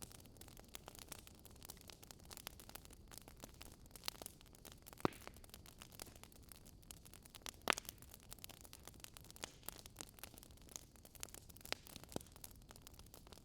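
Faint crackling of a burning wood fire: irregular sharp pops and snaps over a steady hiss, with a couple of louder pops about five and eight seconds in.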